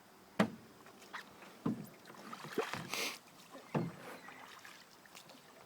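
Canoe paddles stroking through river water, with a handful of irregular splashes.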